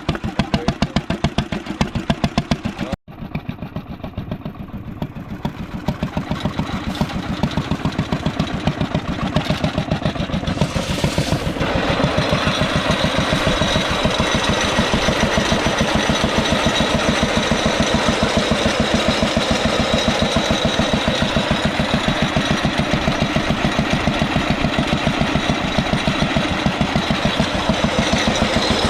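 An antique engine running with a steady, even firing beat. There is a sudden break about three seconds in. Around twelve seconds in it becomes louder and fuller and holds steady.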